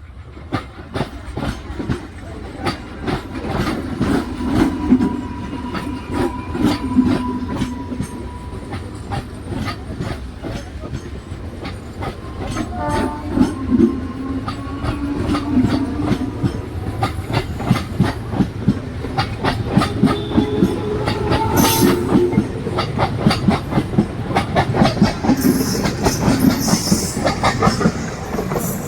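A long freight train passing at speed, its wagon wheels clacking rapidly and steadily over the rail joints, with a few brief squeals from the wheels.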